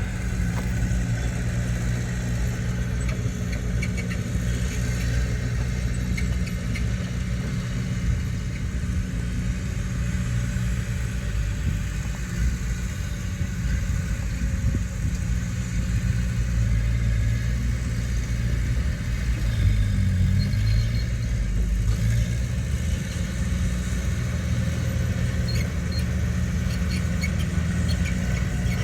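Heavy diesel earthmoving machinery running steadily, a low engine drone that swells briefly about two-thirds of the way through.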